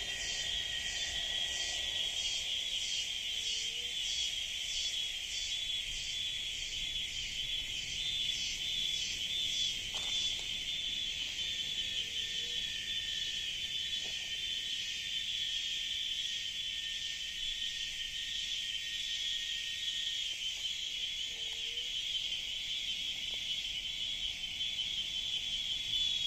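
Cicadas droning steadily in a tropical rainforest chorus, with a higher pulsing layer at about two pulses a second that fades out about ten seconds in. A faint short low call comes three times.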